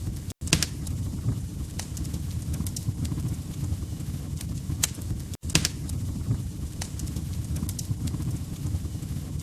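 Wood fire burning in a fireplace: a steady low rumble with sharp crackles and pops scattered throughout. The sound cuts out completely for an instant twice, about half a second in and again about five and a half seconds in.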